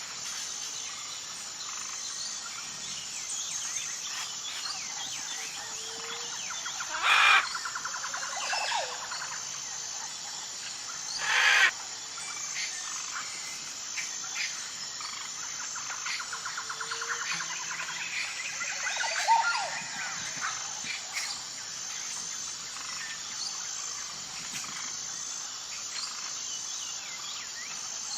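Wild birds chirping and trilling over a steady, high, evenly pulsing insect chorus, with two short loud harsh calls about seven and eleven seconds in.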